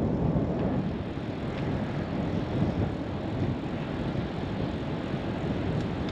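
Wind rushing over a GoPro Media Mod microphone on a bicycle coasting downhill: a steady low rumbling noise.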